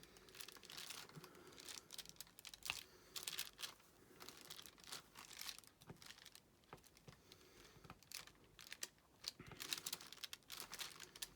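Faint, irregular small clicks and rustles of diamond painting work: the applicator pen picking up resin drills and pressing them onto the sticky canvas.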